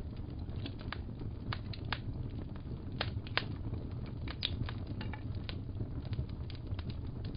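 Fireplace fire crackling: irregular sharp pops and snaps, a few each second, over a steady low rumble of burning.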